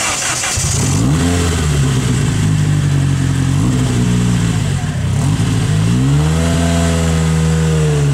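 Westfield sports car's engine running and being revved in a stationary blip-and-hold pattern, the revs rising about a second in, settling, then climbing again about six seconds in and holding before dropping back near the end.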